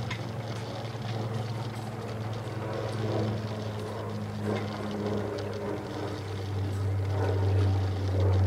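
Steady low hum of the Audi A6 2.7T twin-turbo V6 running in its engine bay, a little louder near the end, while the hot coolant that had been boiling out of the expansion tank falls back.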